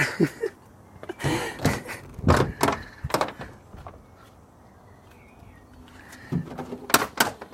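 Truck doors and latches being worked: a few heavy thunks in the first three seconds, then three sharp metallic clicks near the end.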